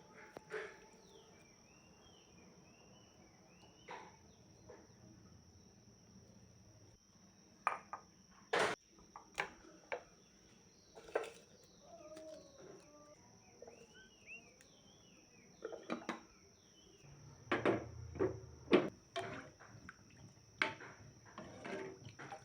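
Scattered knocks and clinks of household objects being handled, irregular and loudest in a cluster about two-thirds of the way through. A steady high whine runs underneath, with a few short chirps.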